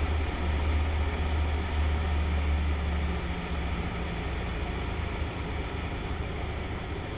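Cessna 152's four-cylinder Lycoming engine droning steadily, easing a little quieter after about three seconds as power is reduced to slow the plane for landing.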